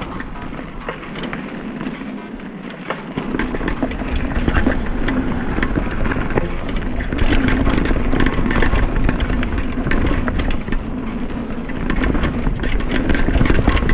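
Retro downhill mountain bike being ridden fast over rough trail: a steady rushing noise with frequent sharp rattles and clicks from the bike, getting louder about four seconds in.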